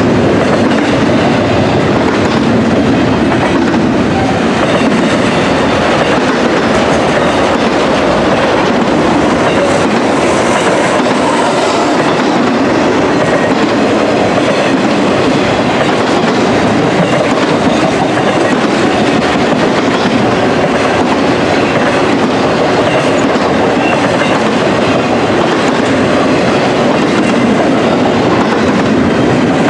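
Double-stack intermodal freight train's cars rolling past at speed: a loud, steady rumble and rattle of steel wheels on rail.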